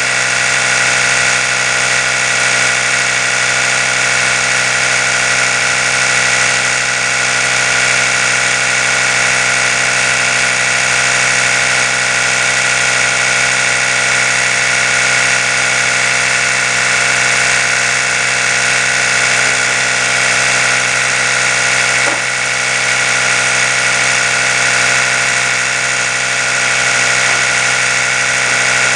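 Oral-B electric toothbrush running continuously, a steady buzzing hum made of many even tones. A brief click and slight dip in level come about three quarters of the way through.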